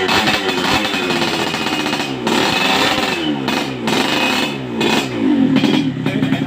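Yamaha RX-King two-stroke single-cylinder motorcycle engine with an aftermarket underslung Soelis exhaust, revved in repeated throttle blips, its pitch rising and falling again and again, then held at a steadier rev near the end.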